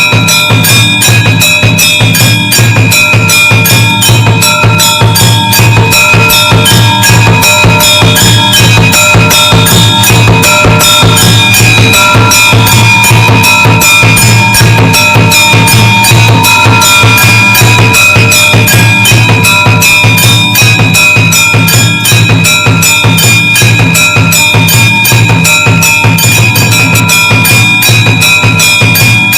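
Temple aarti music: drums and clanging metal percussion beat a fast, steady rhythm of about four strokes a second, over steady ringing bell tones.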